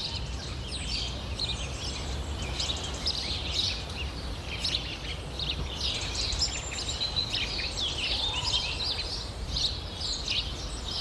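Several small birds chirping in quick, overlapping calls, over a low, steady background rumble.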